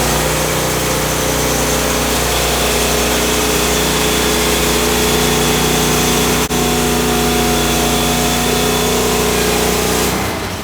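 An engine running steadily at an even speed, cutting off just before the end.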